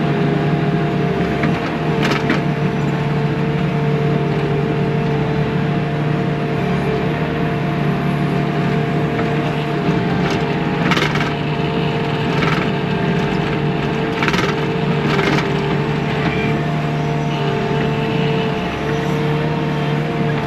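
Bobcat T630 track loader's diesel engine running steadily under work, with several short cracks and crunches of the rock base being pushed and spread.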